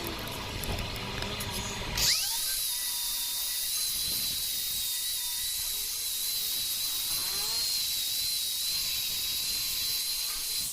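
A high-speed power tool spins up with a quick rising whine about two seconds in. It runs at a steady high pitch with a hiss above it, then winds down at the end. Before it starts there is a low rumble.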